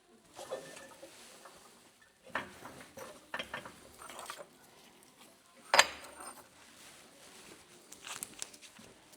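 Workshop handling noises from suspension parts and hand tools being worked on: scattered clicks, knocks and light metallic clatter, with one sharp clank a little before six seconds in.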